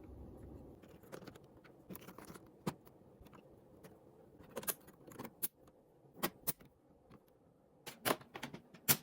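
Irregular sharp clicks and clinks of small hard objects being handled, the loudest about a second before the end, after a low hum that stops under a second in.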